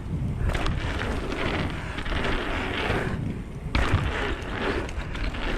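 Wind buffeting the camera microphone and a 26-inch mountain bike's tyres rolling fast over a dirt jump trail, with a few light clicks and rattles from the bike.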